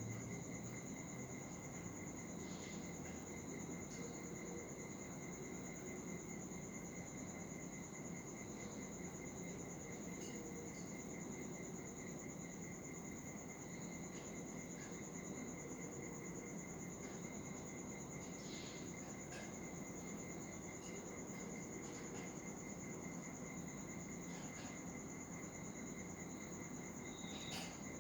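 Cricket trilling: a steady, finely pulsed high note that never breaks, with a few faint short chirps over it now and then.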